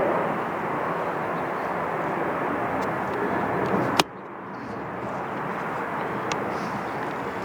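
Jet airliner engine noise, a steady rushing rumble. About four seconds in it cuts off with a sharp click, and a quieter engine rumble then slowly builds.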